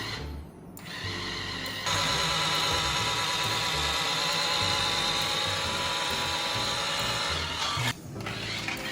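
Background music with a steady beat, over which a small electric motor in the toy car whines steadily for about six seconds before cutting off.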